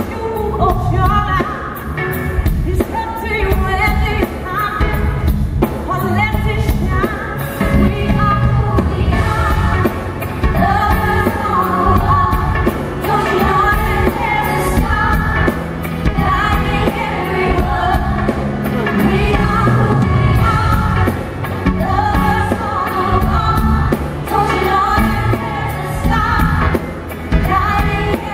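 Live soul/R&B band performance with a woman singing lead over drums, bass and keys, with backing vocals.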